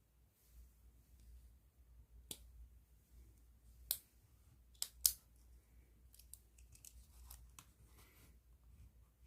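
Sharp clicks from pens being handled: a few loud ones spaced out in the middle, then a quicker run of lighter clicks, with faint scratching between.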